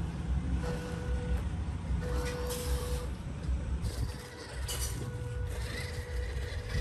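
Radio-controlled off-road truck driving over rough ground, its motor whining in spells as the throttle goes on and off, with tyres crunching and scrabbling in short bursts.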